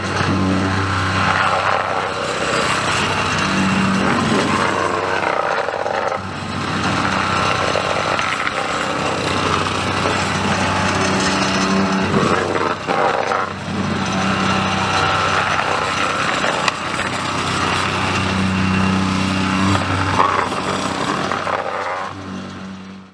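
Engine-driven track-work machinery running continuously, its engine note swelling and easing every few seconds.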